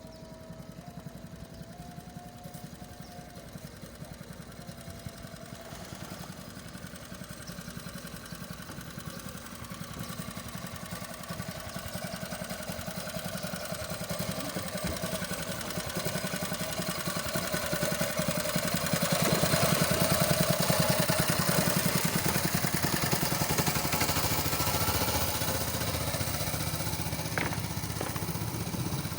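A small boat's engine running as the boat comes closer, growing steadily louder and loudest about twenty seconds in, then easing off slightly. A brief click near the end.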